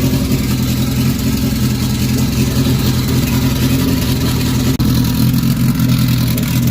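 Engine of a turbocharged Honda Civic EG hatchback running steadily, a deep, even hum. A short click about five seconds in.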